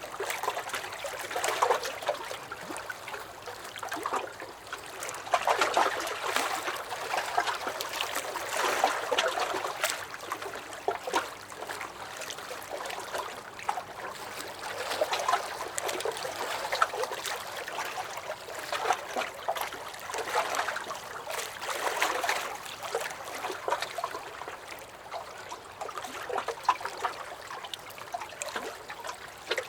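Small lake waves lapping against a dock, a continuous sloshing and trickling that swells every few seconds with little splashes.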